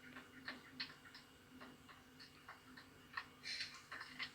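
Hens shifting about in a nest box, their claws and beaks making irregular soft clicks, scratches and rustles in the litter, with a brief louder rustle past the middle. A faint steady low hum sits beneath.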